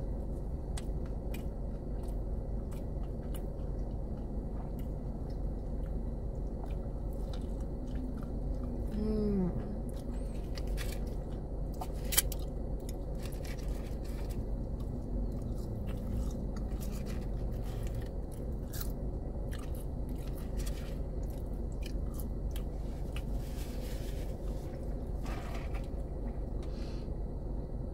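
Close-up eating sounds: a person chewing and biting into a fried fish sandwich and fries, with many small wet mouth clicks and crunches over a steady low hum. There is a sharp click about twelve seconds in, and near the end a sip through a drinking straw.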